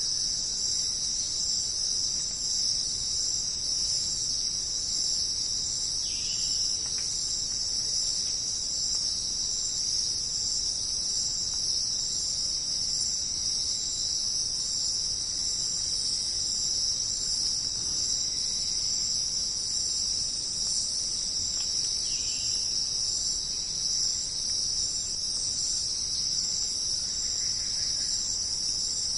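Dense, steady, high-pitched chorus of jungle insects, with a couple of faint short calls around it.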